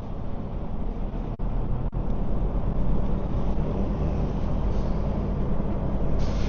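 Semi-truck diesel engine running steadily at a low, even rumble, heard from inside the cab.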